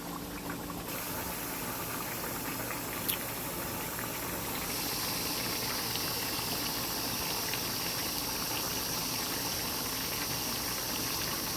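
Chicken breast pieces sizzling steadily in hot frying oil, the sizzle growing brighter a little before halfway, with a single light tap about three seconds in.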